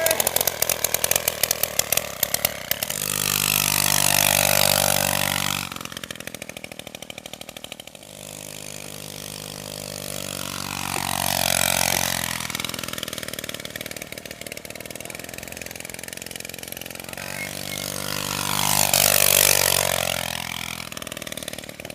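Old TVS XL moped engine running without a silencer and being revved up and back down three times. The first rev rises sharply and cuts off suddenly about six seconds in, and two slower swells follow.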